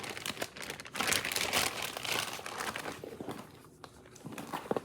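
Crinkling and rustling of packaging handled by hand, busiest in the first half and quieter near the end.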